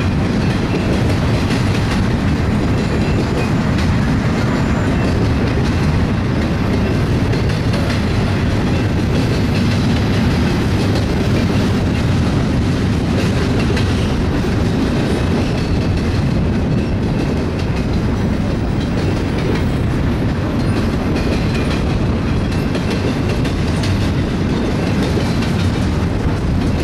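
Double-stack container well cars of a freight train rolling past, their steel wheels rumbling steadily on the rails.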